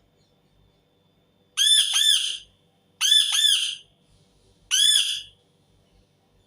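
Indian ringneck parakeet screeching three times, each call a harsh burst of quick arching notes lasting under a second, about a second and a half apart.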